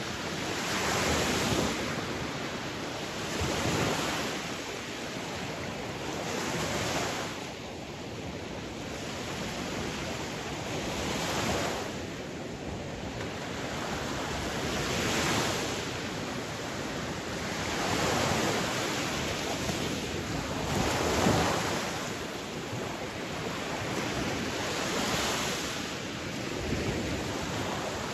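Sea waves breaking and washing on a shore, a surge every three to four seconds over a continuous rush of surf.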